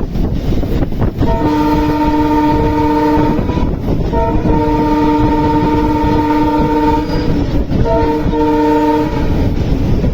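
Train horn sounding three blasts, a long one in the middle and a shorter one at the end, each a chord of several tones together, over the steady rumble of a running train.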